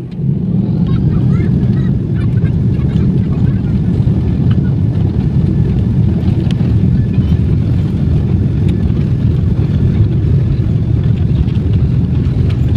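Loud, steady low rumble of aircraft engines that sets in abruptly and holds even, with faint voices underneath.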